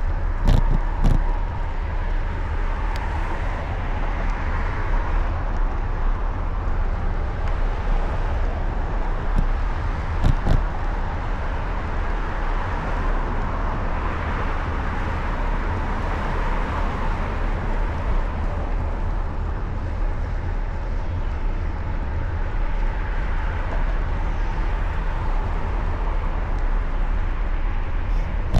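Street traffic noise heard from a moving bicycle, with a steady deep rumble of wind on the microphone, swelling and fading over several seconds. A few sharp knocks come about half a second in and again around ten seconds.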